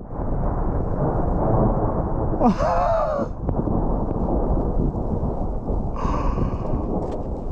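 Thundersnow: a long, continuous low rumble of thunder following a lightning flash during a snowstorm. Two short vocal exclamations cut in, about two and a half and six seconds in.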